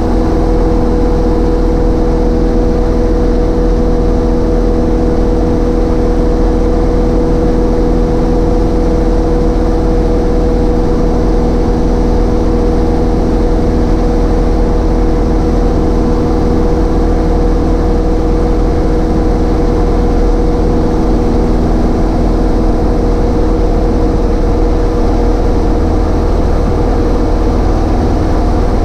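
Cessna 152's four-cylinder Lycoming engine and propeller running steadily at a constant power setting, a loud unchanging drone with a few held tones over a low rumble.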